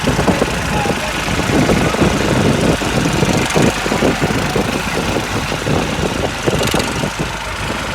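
Tractor diesel engine running loud and steady, with an uneven knocking pulse.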